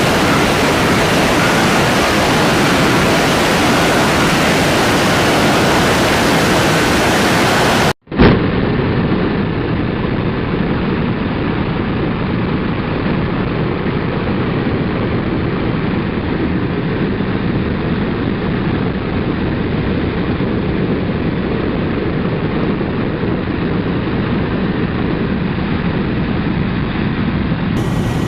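Steady, loud noise of a helicopter running, with no clear pitch. About eight seconds in, the recording cuts with a brief dropout and a sharp spike, then goes on duller, with a faint steady high whine.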